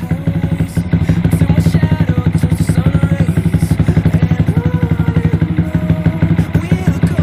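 Yamaha Vixion's single-cylinder four-stroke engine running steadily, its exhaust firing as a fast, even pulse through a muffler filled with water.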